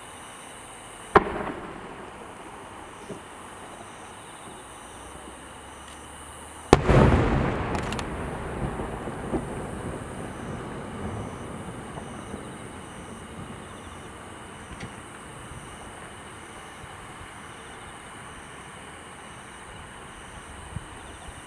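Large aerial firework shells of the white chrysanthemum memorial display: a sharp bang about a second in, then a much louder boom about seven seconds in that rolls and echoes away over a few seconds, followed by a few small pops.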